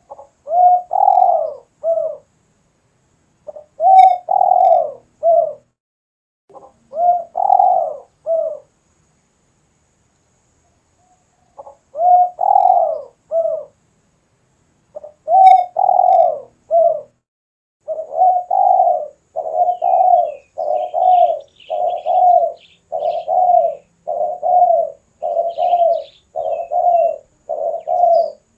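Spotted dove cooing: several separate phrases of a few coos each with pauses between, then from about two-thirds of the way through a quick, even run of repeated coos, a little under one a second. Fainter high chirps from another small bird come in over the later part.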